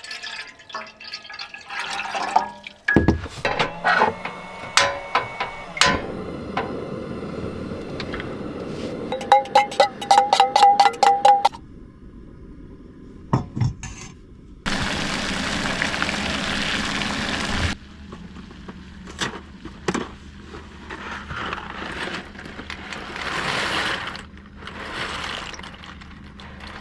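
Cookware and utensils clinking, knocking and being handled while setting up to boil noodles, with a quick run of light metallic ticks about ten seconds in. About fifteen seconds in a steady rushing noise starts abruptly and cuts off about three seconds later.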